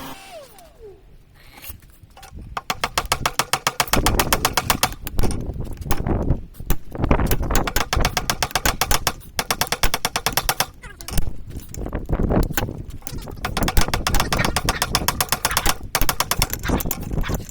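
Fast, steady hammering on a punch driven through a hot railroad spike on the anvil, several blows a second. It starts about two seconds in and goes on with a few brief pauses, working the eye hole of a tomahawk through the steel.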